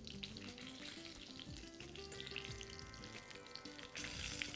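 Breaded chicken cordon bleu frying in a pan, a faint sizzle with small crackles that grows louder about four seconds in. Background music plays underneath.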